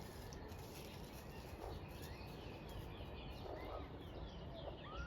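Faint outdoor ambience: small birds chirping in the distance, many short high chirps, over a steady low background rumble.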